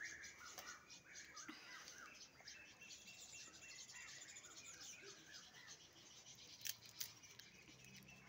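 Faint bird chirping, with two sharp clicks close together about seven seconds in.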